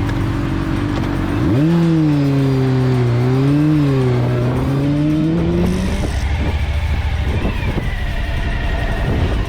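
Motorcycle engine running low, then revving up sharply about a second and a half in, its pitch wavering and climbing as it pulls away. About six seconds in the tone gives way to a steadier low rumble.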